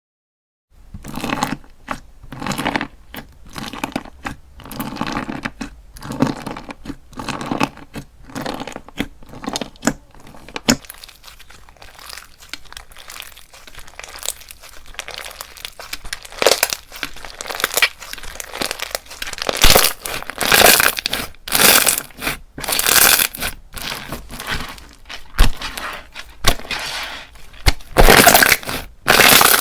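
Slime being pressed, squeezed and stretched by hand in a long run of short, irregular strokes. It goes softer for several seconds in the middle and is louder near the end.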